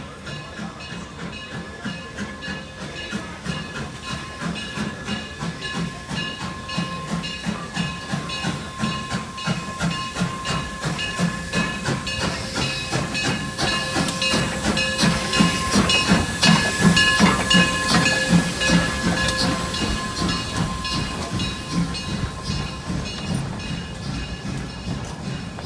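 Narrow gauge steam locomotive working past, its exhaust chuffing in a quick steady rhythm with hissing steam and a steady high ringing over it, growing louder to a peak about two-thirds of the way through and then fading.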